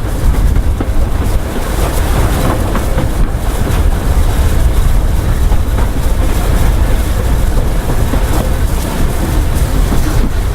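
Train running on a heritage line, most likely hauled by a Bulleid steam locomotive: a loud, steady, deep rumble.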